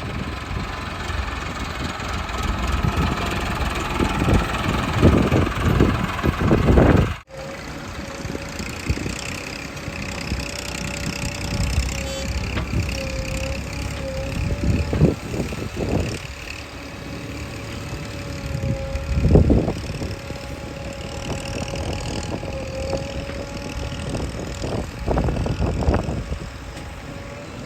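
Heavy diesel machinery engine running, surging louder every few seconds as under working load. The sound breaks off abruptly about seven seconds in and comes back with a steadier hum holding a wavering tone.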